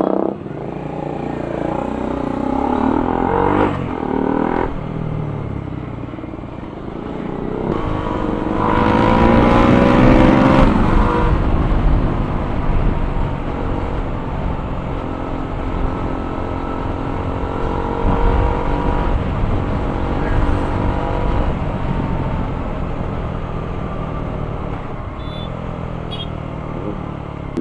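Motorcycle engines running while riding in traffic, with one engine speeding up between about eight and eleven seconds in, over steady road and wind noise.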